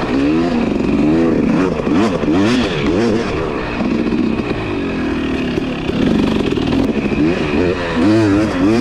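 Two-stroke 250 dirt bike engine being ridden hard, the pitch rising and falling again and again as the throttle is worked and the gears change.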